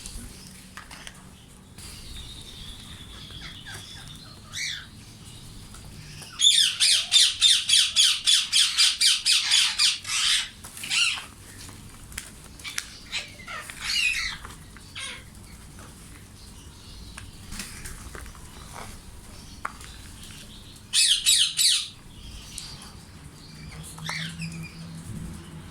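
Indian ringneck parakeets calling: a loud run of rapid high-pitched calls, about five a second for some four seconds, and a shorter run later, with scattered single calls between.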